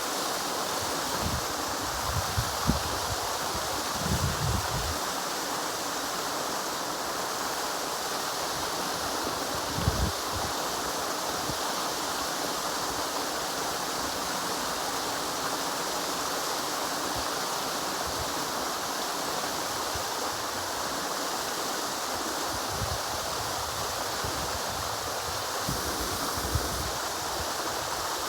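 River water flowing, a steady even rush. A few brief low thumps break in during the first few seconds and again about ten seconds in.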